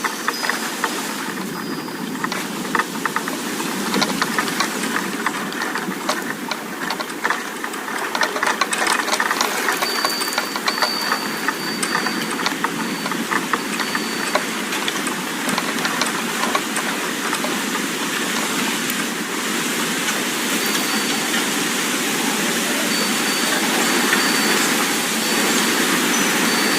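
Wind rushing steadily as a loud noise that grows louder toward the end, with high-pitched wind chimes ringing now and then.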